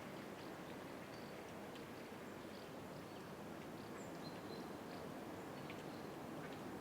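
Outdoor morning ambience: a steady rushing background noise with scattered faint, short chirps of small birds.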